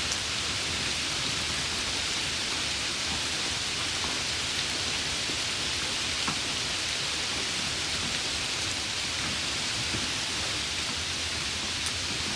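Steady rain falling on a surface, an even hiss with a few scattered drop ticks.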